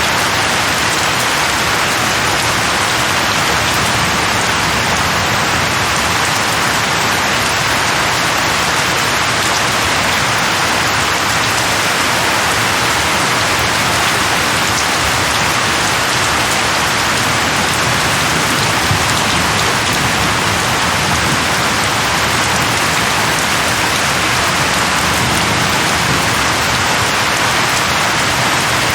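Steady heavy rain, an even hiss of falling drops with no pauses or distinct thunder.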